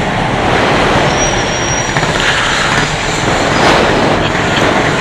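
Loud road traffic passing close by, a steady rush of vehicle noise.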